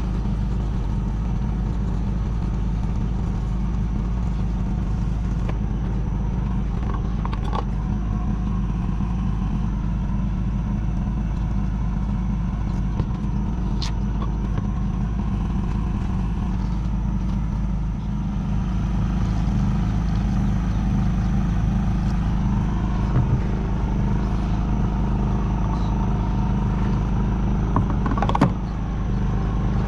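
Diesel engine of a 1976 John Deere 450C bulldozer running steadily. It gets a little louder about two-thirds of the way through, with a few light clicks and knocks over it.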